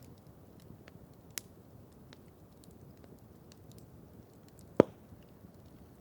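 Campfire crackling: scattered small ticks and snaps over a soft low hiss, with a sharper snap about a second and a half in and one loud pop a little under five seconds in.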